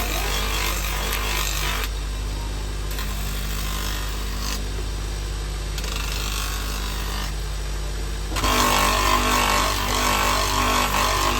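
Woodworking power tools running in a workshop under a steady motor hum. Wood is worked with a rough, scraping noise for the first couple of seconds. About eight seconds in, a louder and rougher machine noise starts suddenly.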